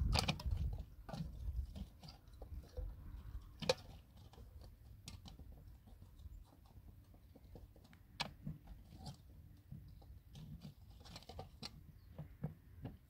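Scattered light clicks and knocks, irregular and a few seconds apart, from small things being handled by hand, over a low rumble that is strongest about the first second.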